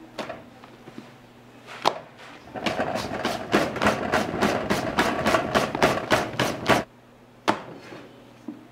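A few separate knocks, then a fast, regular run of sharp knocks or taps, about four a second for some four seconds with a ringing tone under them, stopping suddenly; kitchen work of some kind.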